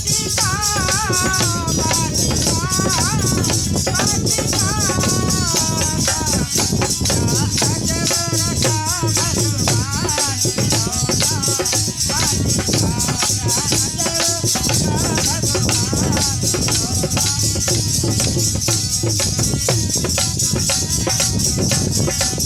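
Devotional bhajan music: a wavering melody over steady jingling hand percussion and a drum beat. The melody fades out a little past halfway, leaving the percussion playing on.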